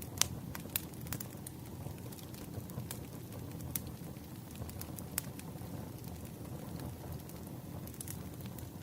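Wood fire burning with a steady low rumble and irregular sharp crackles and pops, one loud pop just after the start.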